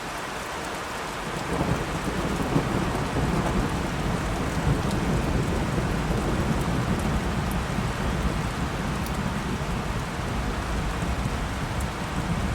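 Steady rain with a long roll of thunder. The low rumbling comes in about a second and a half in and rolls on under the rain.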